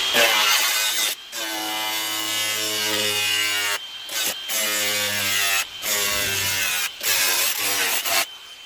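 Power tool cutting in short passes, running steadily and stopping briefly about six times.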